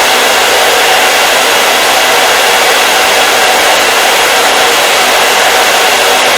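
Hair dryer running steadily: an even, loud rush of blown air with a faint motor hum underneath, unchanging throughout.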